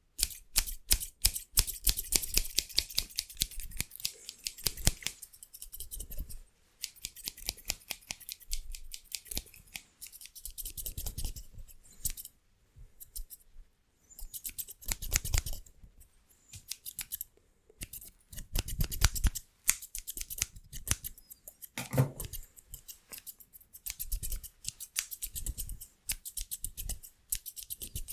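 Haircutting scissors snipping very rapidly in fast runs of cuts, broken by brief pauses.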